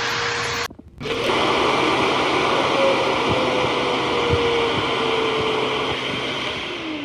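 GULUQI high-velocity dog grooming dryer blowing at high velocity: a steady rush of air with a motor whine. The sound breaks off for a moment about a second in, then the whine slowly sinks in pitch and the sound fades near the end as the motor winds down.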